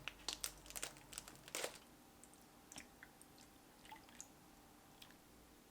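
Faint crunching and chewing: a cluster of short crunchy clicks in the first second and a half, then a few scattered faint ticks.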